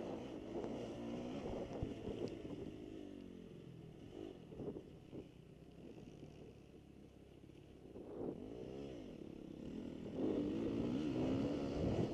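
Motocross bike engines revving up and down as they ride the track, quieter for a few seconds mid-way and picking up again near the end.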